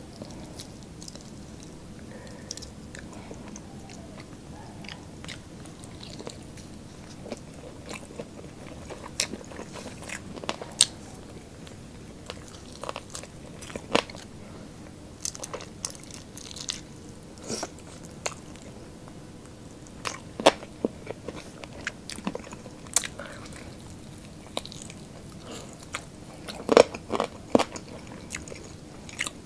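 Close-miked eating of sauced fried chicken wings: biting, chewing and crunching, with scattered sharp crunches and wet clicks that come more often in the second half, the loudest cluster near the end.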